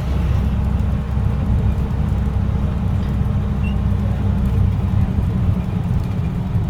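Steady drone and road rumble inside a 2006 Blue Bird Vision school bus under way, from its CAT C7 inline-six diesel engine running at a constant pace.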